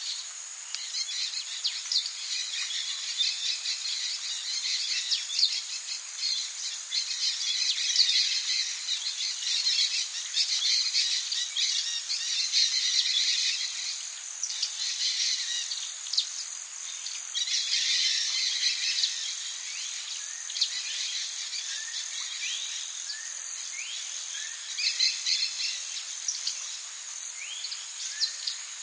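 Tropical rainforest ambience: a dense chorus of insects with a steady high buzz, under a constant high hiss, with bird calls scattered through it. Several short rising bird calls come near the end.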